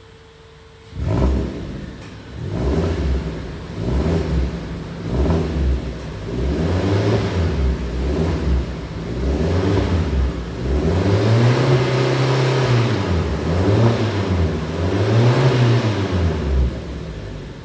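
Suzuki Jimny JB74's 1.5-litre four-cylinder engine, heard through an aftermarket cat-back exhaust. It starts about a second in with a sharp flare, then is revved again and again: a run of short blips, followed by longer, higher revs that rise and fall back to idle.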